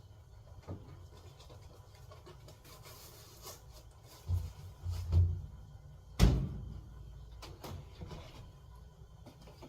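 A few dull thumps and then one sharp knock, the loudest, about six seconds in, with lighter clicks between: household objects being handled, like a cupboard or door being opened and shut.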